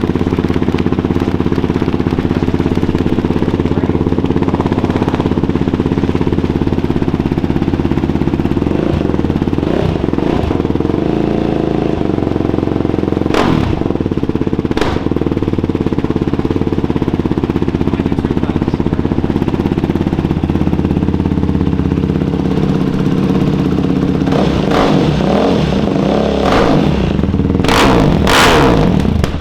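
Yamaha YFZ450R quad's single-cylinder four-stroke engine breathing through a new Rossier R5 aftermarket exhaust, loud and running steadily. Two sharp knocks come about midway, and near the end the engine revs up and down several times.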